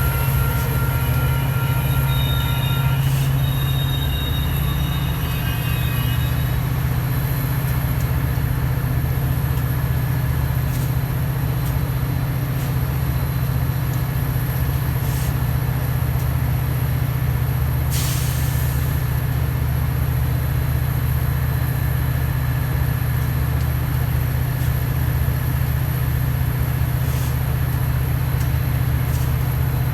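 A train at the station: a steady low rumble with thin, high wheel-squeal tones over roughly the first five seconds, and a single sharp click about 18 seconds in.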